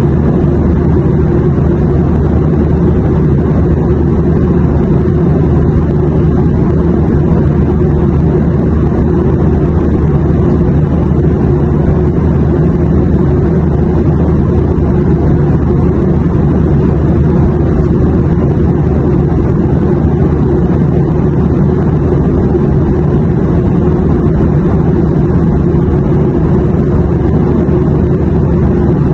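Steady airplane drone: a constant low rumble, even and unchanging throughout.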